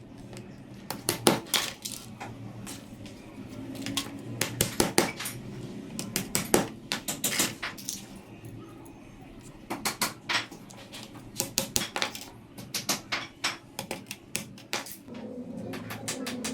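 Light, sharp taps in quick runs of several a second, with short pauses between runs, from hands-on work assembling a cage of wooden sticks.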